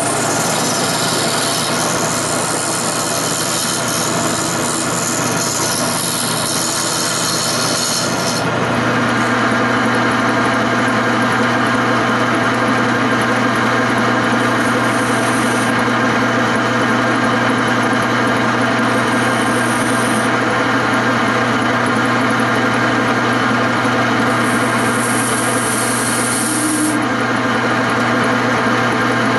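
Wood lathe running while a turning tool scrapes against the spinning wooden chair leg. The sound is steady, with a change in the cutting noise about eight seconds in.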